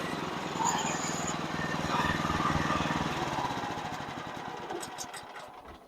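Sawmill engine running steadily, then winding down and dying away over the last couple of seconds as it is shut off after a cut. A few light ticks come near the end.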